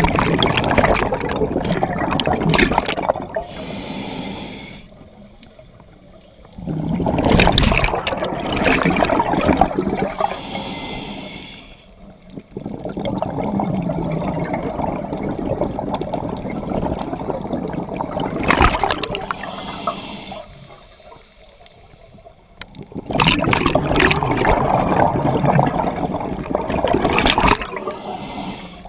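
Scuba diver breathing through a regulator underwater: long bubbling exhalations, four of them, each followed by a short, thinner inhalation hiss.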